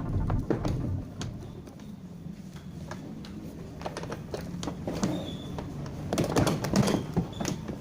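Irregular clicks and light knocks of small parts and tools being handled during repair work, coming thicker and louder near the end, over a faint low hum.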